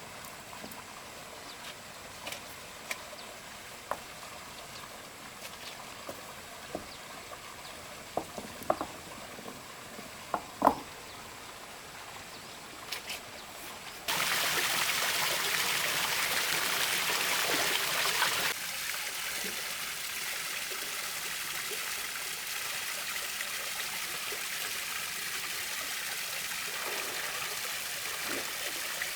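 Water running from a stone artificial waterfall: first a faint trickle with a few scattered light knocks, then about halfway in a sudden louder rush of falling water for a few seconds, settling into a steady stream.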